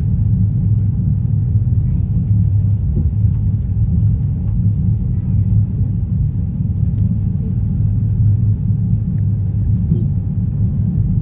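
Steady low rumble of a Bangladesh Railway passenger train running at speed, heard from inside the carriage at an open window, with a few faint ticks.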